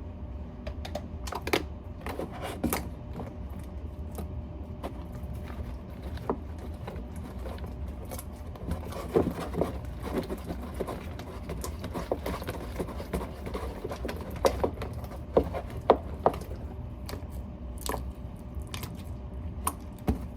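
Slime being mixed and kneaded by hand after activator has been added: irregular wet squelches and sticky clicks, denser in the second half, over a steady low hum.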